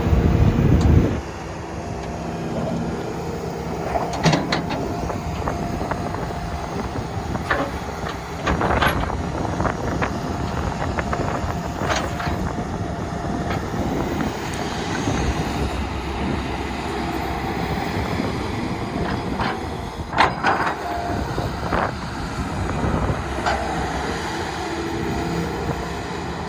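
Hitachi ZX270LC-3 hydraulic track excavator working: its diesel engine runs steadily, with sharp metallic clanks and knocks several times, the loudest about 20 seconds in.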